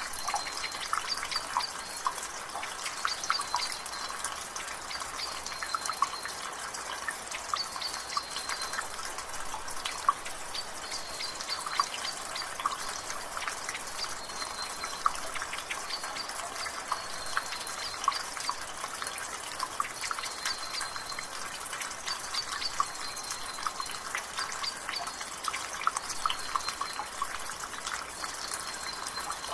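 Water dripping and trickling from a rain gutter over a steady wash of rain, many irregular drips. A bird repeats a short high note every second or two.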